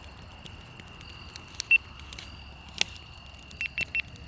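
Campfire crackling with a few sharp pops, the clearest about three seconds in, over a steady high insect trill. A few louder chirps at the trill's pitch stand out, one a little before two seconds in and three in quick succession near the end.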